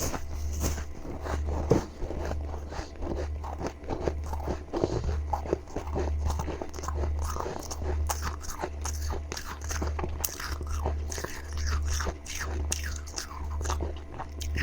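Freezer frost being bitten and chewed close to the microphone, giving dense, rapid crunching with no pause. Underneath runs a low hum that swells about once a second.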